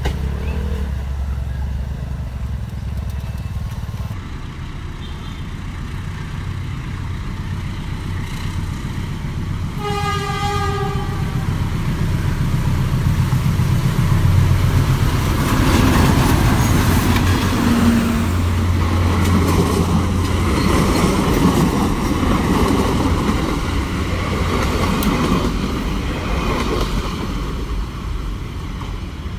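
Philippine National Railways diesel trains passing close by in successive shots: a low diesel engine rumble with wheel and rail noise that swells for several seconds in the middle as a train goes past. A train horn sounds once for about a second, about a third of the way in.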